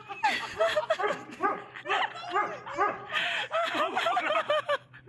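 A dog barking and yelping in a rapid string of short, arched calls, about two or three a second.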